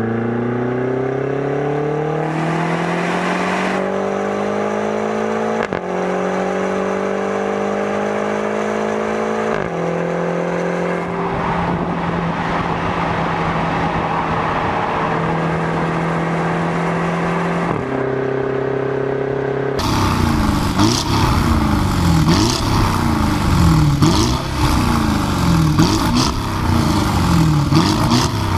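Twin-turbo V8 SUV engine at full-throttle acceleration, its pitch climbing in each gear and dropping at upshifts about six, ten and eighteen seconds in, with a long slowly rising pull in the high gear between. About twenty seconds in the sound cuts abruptly to a noisier sound with a regular repeating pattern.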